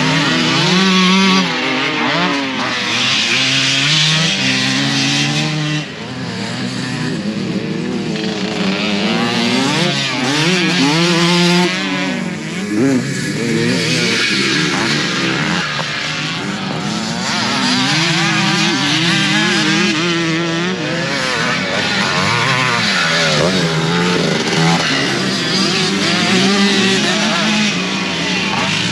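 Several motocross dirt bikes racing around the track, their engines overlapping and repeatedly rising and falling in pitch as riders rev and shift through the gears.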